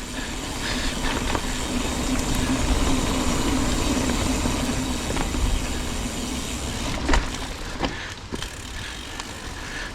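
Mountain bike rolling along a dirt trail: steady tyre and drivetrain noise with wind on the microphone, and a couple of sharp rattles from the bike about seven and eight seconds in.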